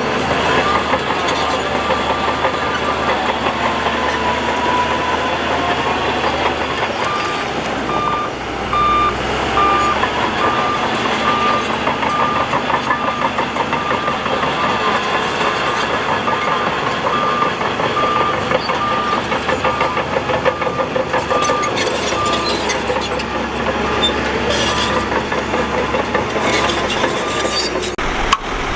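Heavy earthmoving machine's diesel engine running under load. For a stretch through the middle, a reversing alarm beeps steadily at a little over one beep a second.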